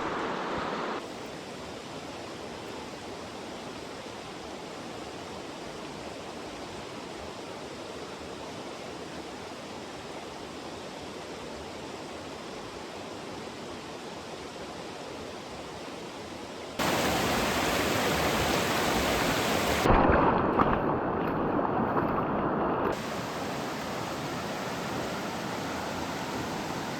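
Steady rush of flowing stream water, with no other sound standing out. It drops a little in level about a second in, then jumps abruptly louder about two-thirds of the way through and eases back a few seconds later.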